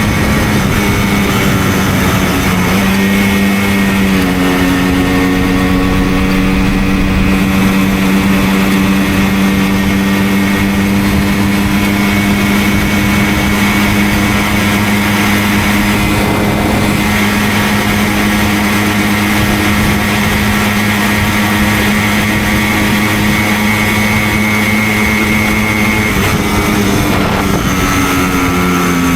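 Simson moped's two-stroke single-cylinder engine pulling steadily on the road, its pitch stepping up a little a few seconds in, holding, then falling near the end.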